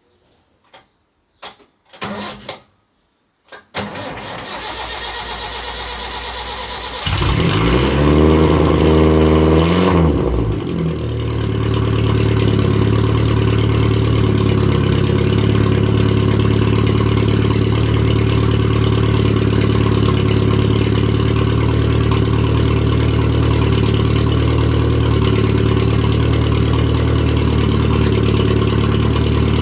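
Datsun 1000's four-cylinder engine cold-started through a straight-piped exhaust: a few clicks, then cranking for about three seconds before it catches about seven seconds in. The revs waver for a few seconds, then settle into a steady idle, starting easily after a week and a half of sitting without pumping the throttle.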